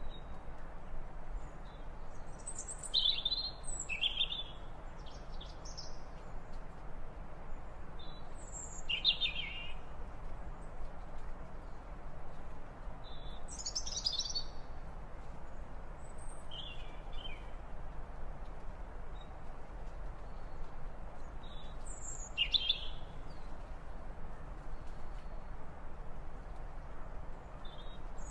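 Short bird calls, singly or in quick pairs, every few seconds over a steady background hiss.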